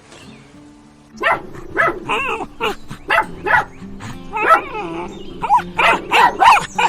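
A dog barking repeatedly: about a dozen short barks in quick, uneven succession, starting about a second in, over background music.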